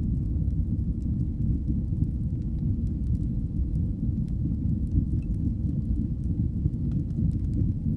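Fireplace fire burning: a steady low rumble with scattered faint crackles and pops.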